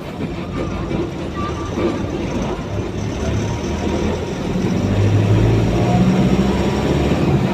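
A heavy vehicle's engine running, a steady low rumble that grows louder from about five seconds in.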